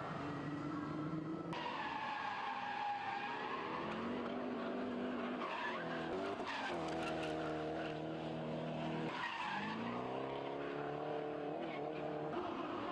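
Car engines revving hard. The pitch climbs, drops at each gear change and climbs again, with tyres skidding and screeching at times.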